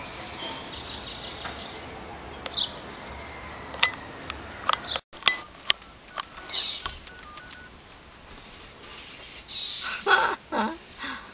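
Blue jays giving scattered harsh scolding calls and whistles, the loudest a burst of falling calls near the end. These are mobbing calls aimed at a cat. A few sharp clicks sound in the middle.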